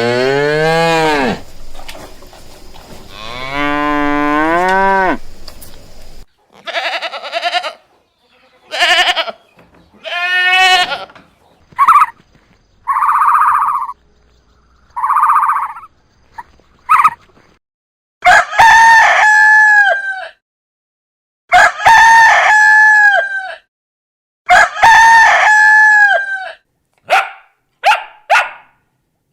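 A run of farm animal calls one after another: low drawn-out calls at first, then bleating, then three long rooster crows, and a few quick short calls near the end.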